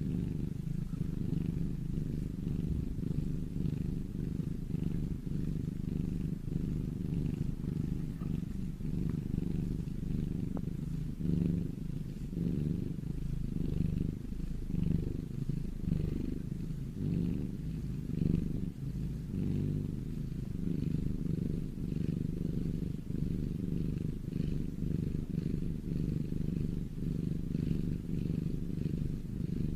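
Domestic cat purring steadily in a continuous low purr.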